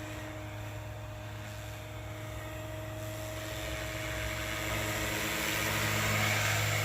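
Electric SAB Goblin 570 three-blade RC helicopter in flight, its rotor and motor giving a steady hum that grows louder through the second half.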